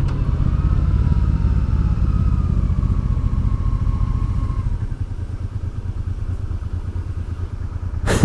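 Honda Deauville motorcycle's V-twin engine running while riding, heard from on the bike, with a steady low pulse. It eases off slightly about five seconds in.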